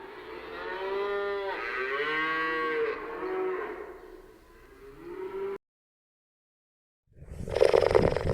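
A cow mooing in drawn-out calls that rise and fall in pitch, cut off abruptly about five and a half seconds in. A louder, rougher animal sound begins near the end.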